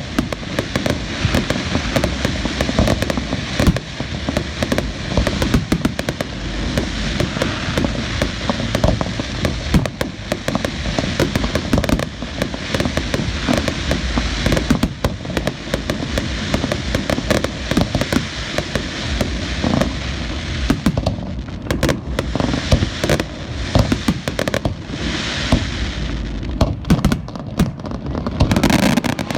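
Aerial fireworks display: a dense, unbroken barrage of overlapping shell bursts, bangs and crackle.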